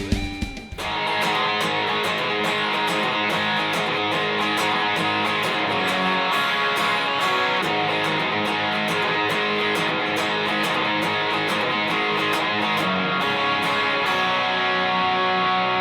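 Music led by electric guitar. About a second in it changes abruptly from loud, heavy chords to a thinner, dense, steady-level passage.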